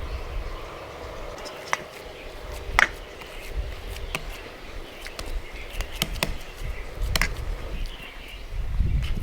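A handful of sharp, scattered clicks and knocks, like utensils being handled, over a low rumble that swells near the end.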